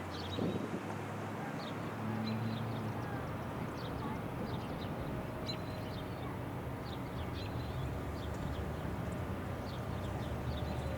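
Small birds chirping, many short, high calls scattered throughout, over a steady low hum.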